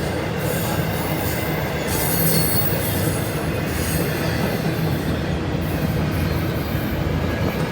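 A train's cars rolling past on the track, a steady continuous noise of wheels on rails.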